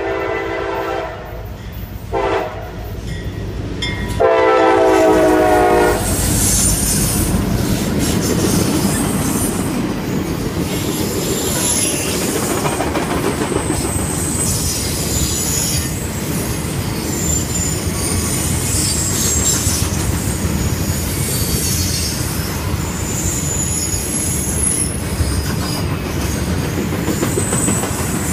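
CSX freight train's diesel locomotive horn sounds three times: a blast ending about a second in, a short one, then a long, loud one about four seconds in. After that the freight cars roll past steadily, wheels clacking over the rail joints, with intermittent high-pitched wheel squeal.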